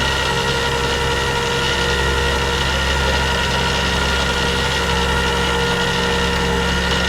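Rollback tow truck's engine idling steadily.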